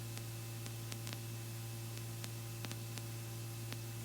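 Steady low hum under faint hiss, with scattered soft clicks, on a Robinson R44 helicopter's intercom audio during a hover; the rotor and engine noise is largely muted on the feed.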